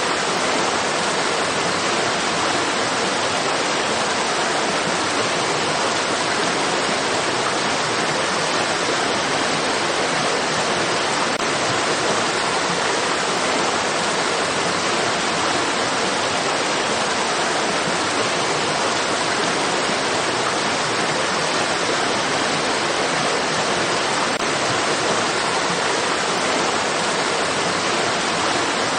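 Running water of a stream, a steady even rush with no breaks or changes.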